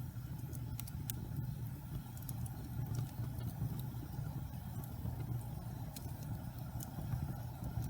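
Wood fire burning in a fireplace: a steady low rumble with scattered sharp crackles and pops every second or so.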